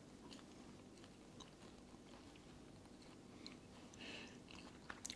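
Faint chewing of soft, doughy pizza, with small mouth clicks and smacks scattered through it.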